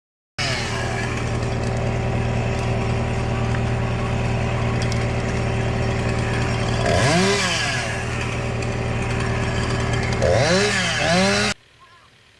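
Chainsaw engine running over a steady engine drone, revved up and back down about seven seconds in and twice more near the end. The sound starts and stops abruptly.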